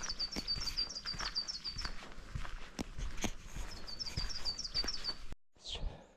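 A small bird sings a rapid run of identical high chirps, about seven a second, twice, over a hiker's footsteps on a dirt trail. The sound drops out suddenly near the end.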